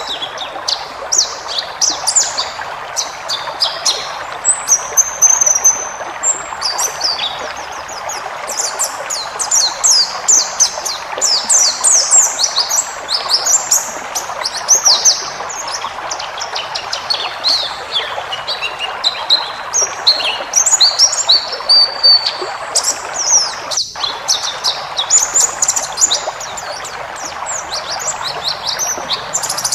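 White-eye (pleci) singing in continuous, rapid, high-pitched twittering phrases and trills, over a steady background hiss, broken once by a split-second gap near the end.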